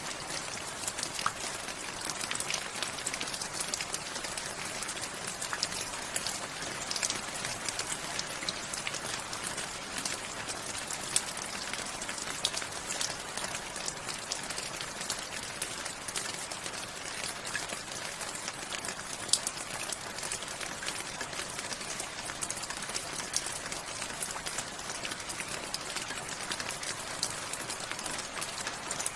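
Steady rain falling, a continuous hiss with many individual drops pattering and a few louder drip impacts standing out.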